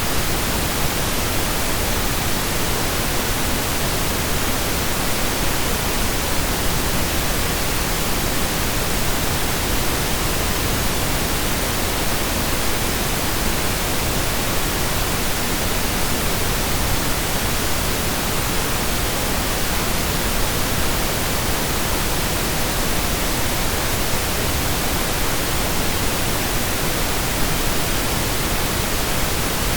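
Steady synthesized pink noise: an even, unbroken hiss spread across the whole audible range, like steady rain.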